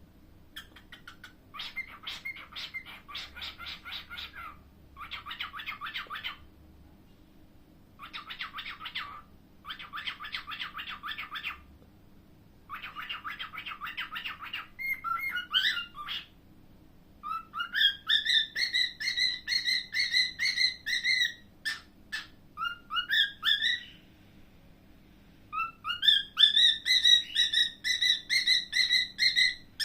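Pet cockatiel chattering in quick, rattling bursts through the first half, then whistling: repeated notes that rise and level off into held, wavering whistles.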